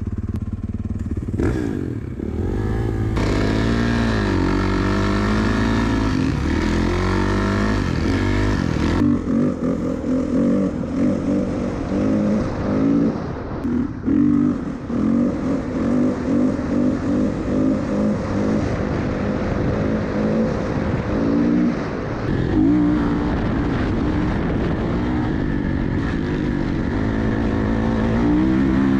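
Off-road vehicle engine under way across sand dunes, its pitch rising and falling as the throttle opens and closes. It goes choppy for a stretch in the middle, revving in short pulses.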